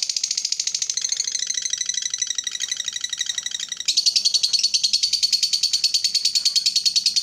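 Lovebird giving a long 'ngekek': an unbroken, rapid chattering trill of high, shrill notes, more than ten a second. It grows louder about four seconds in.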